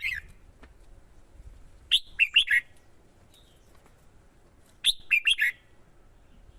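Red-whiskered bulbul singing short, quick phrases of a few notes each, two phrases about three seconds apart with faint chirps between.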